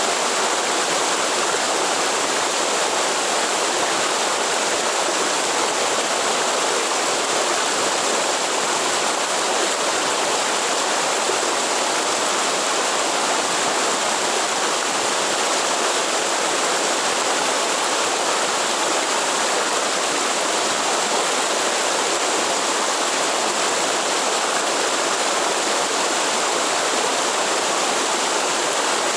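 Waterfall water rushing and splashing steadily, an even, unbroken noise.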